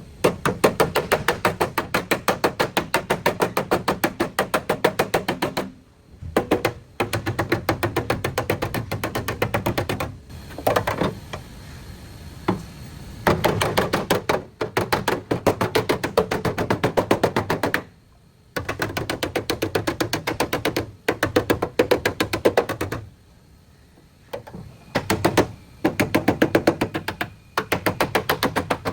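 Rapid, evenly spaced knocking on car body metal, in bursts of a few seconds separated by short pauses, like a power tool hammering bodywork.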